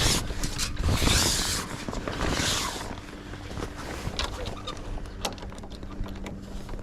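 Handling noises from a Gull sailing dinghy being rigged: two loud rustling swishes about a second and two and a half seconds in, with scattered small clicks and knocks of fittings and a faint steady low hum.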